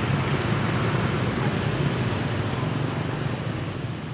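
KRL electric commuter train running on the track as it moves away, a steady rumble that slowly fades.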